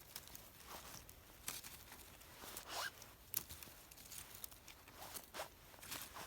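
Scattered short rustles, scrapes and snaps of paper and small twigs being handled at a damp campfire that will not catch, about seven separate noises in the few seconds.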